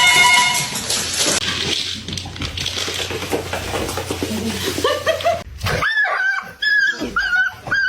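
A pet's high whining cries, several short ones in quick succession in the second half, after a stretch of noisy rustling.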